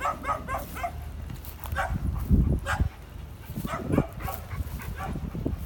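A dog whimpering and yipping: a quick run of about five short high calls at the start and one more a little later. Low rumbling thuds come around the middle.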